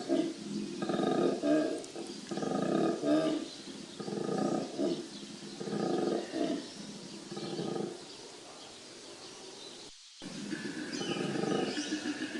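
Male koala bellowing: a run of deep, rasping, pulsing calls in bursts of about a second each. It fades for a couple of seconds, breaks off abruptly about ten seconds in, then starts again.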